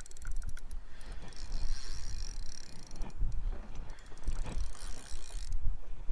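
Fishing reel ratcheting in rapid clicks while working a fish that has wrapped the line into a snag on the bottom. The clicking stops about five and a half seconds in.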